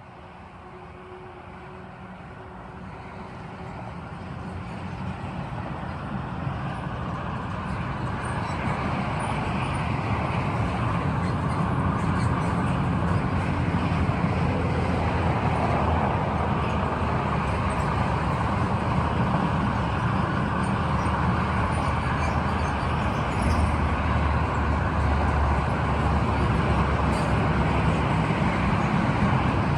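Freight train hauled by two Siemens Vectron electric locomotives, its rumble growing louder over about ten seconds as it approaches. The rumble of the wagons rolling past then holds steady, with scattered wheel clicks.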